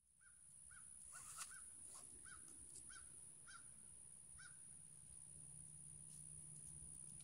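A bird calling faintly in a series of short, clipped notes, about two a second, stopping about four and a half seconds in, over a steady high-pitched whine and a low hum.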